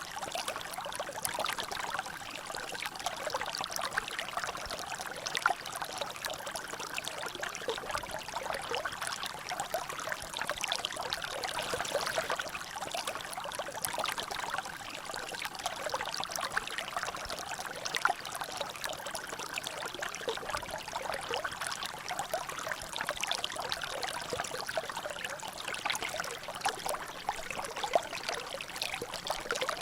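Water trickling and dripping in a small natural drainage channel: a steady splashing with many small drops and plinks.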